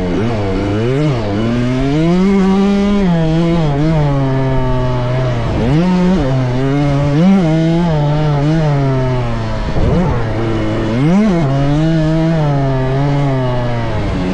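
Small two-stroke motocross bike engine, a KTM 65, revving up and down as it is ridden, its pitch rising and falling repeatedly with several sharp rises and drops.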